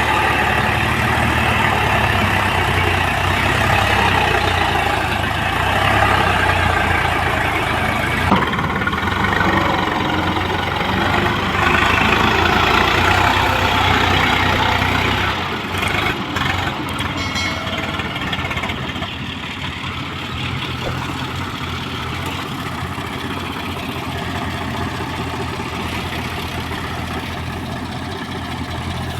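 Diesel engines of an excavator and farm tractors running steadily on a loading site, louder for the first half and easing down about halfway through, with one sharp knock a third of the way in.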